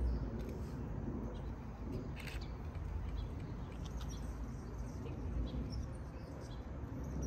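A few short, faint bird chirps over a low steady rumble.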